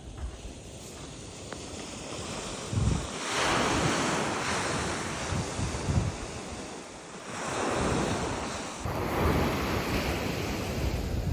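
Sea waves breaking and washing up the shore, swelling and fading twice, with wind buffeting the microphone.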